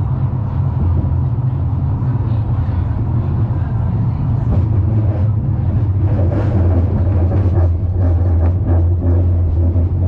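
Steady low rumble of an Amsterdam tram in motion, heard from inside the car.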